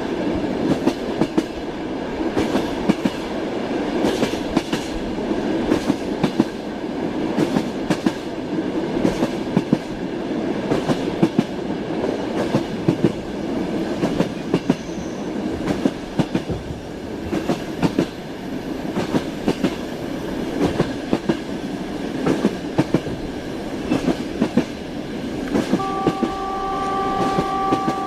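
Train wheels clicking over the rail joints in a steady clickety-clack over a continuous rumble. Near the end a train horn sounds, one steady held note.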